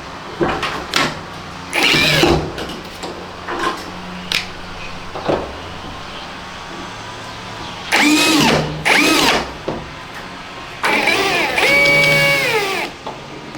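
Electric drill running in short bursts, its motor whine spinning up, holding and winding down, the longest burst lasting about two seconds near the end. It follows scattered knocks and clatter of tools and parts being handled.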